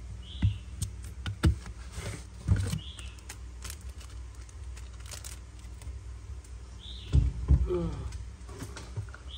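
Sharp clicks and clacks of Zippo lighters being handled, with a few separate knocks early on and a quick cluster near the end, over a low steady hum.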